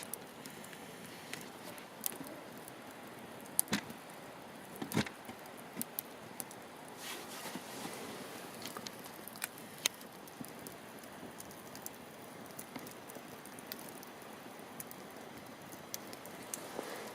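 Wood campfire burning: a steady soft hiss with scattered sharp crackles and pops, a few louder pops about four and five seconds in.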